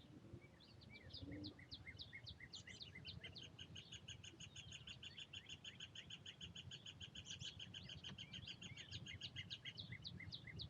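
A woodpecker calling: a long, faint series of rapid, sharp repeated notes that quickens and thickens through the middle.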